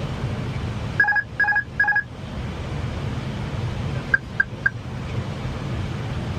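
Airliner cockpit alert beeps over the steady rush of cockpit noise: three short beeps about a second in, then four quicker, fainter, higher-pitched beeps about four seconds in.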